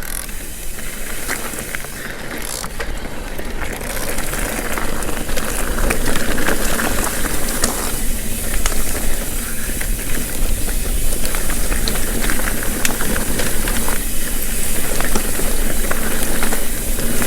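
Mountain bike rolling along a dirt trail: a steady rush of wind and tyre noise with small rattles and clicks, getting louder about four seconds in.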